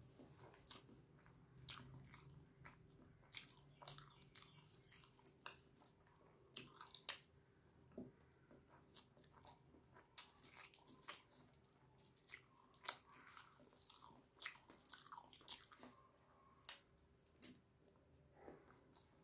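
A person chewing a mouthful of soft rice and rajma eaten by hand, close to the microphone: wet chewing and lip smacks heard as irregular soft clicks.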